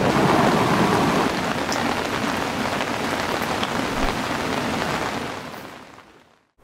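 Steady heavy rain falling, with a few separate drops ticking, fading out to silence near the end.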